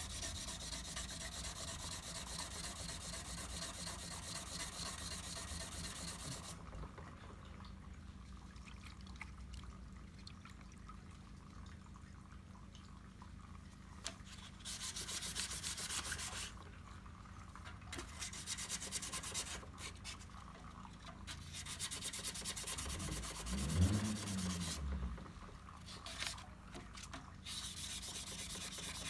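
Sandpaper rubbing over body filler in dry sanding, a rasping scrub: continuous for the first six seconds, then in short spells of strokes with pauses between, and steady again near the end. About three-quarters of the way in, a brief low rumble that wavers in pitch is the loudest moment.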